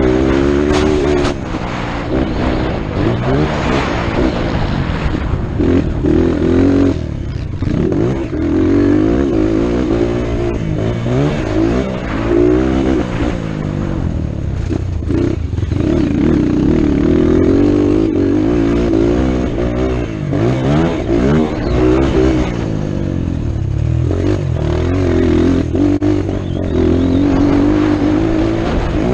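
Motocross motorcycle engine revving hard, its pitch repeatedly rising and falling as the rider accelerates, shifts and backs off through the track.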